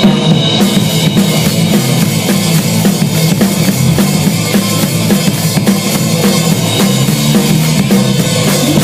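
Rock music: an instrumental passage with a driving drum kit, bass drum and snare, and a steady bass line, with no singing.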